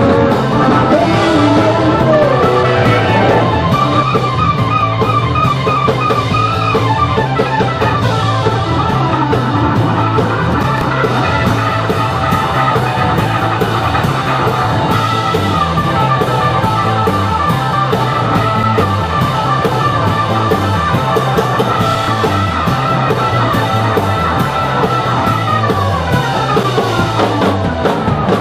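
Live blues-rock band playing an instrumental passage: guitar lines over a walking bass and a steady drum-kit beat.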